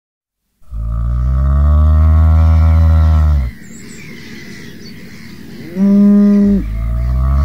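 Cattle mooing: a long, low moo lasting about three seconds, a short higher-pitched call about six seconds in, then another long, low moo beginning near the end.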